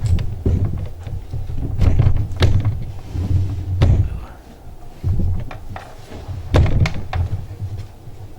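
A series of heavy thumps and sharp knocks close to the microphone, several over a few seconds, as a gayageum is set in place for playing.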